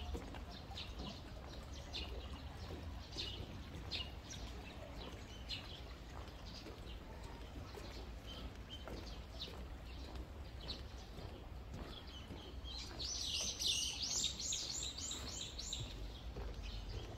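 Small birds chirping, short high calls scattered throughout, then a fast run of about ten louder chirps some thirteen seconds in that lasts about three seconds. A steady low rumble runs underneath.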